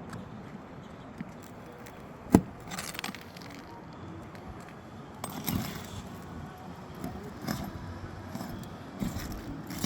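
A metal tool working under asphalt roof shingles to pull roofing nails: one sharp metallic knock about two seconds in, then scattered scrapes and clinks.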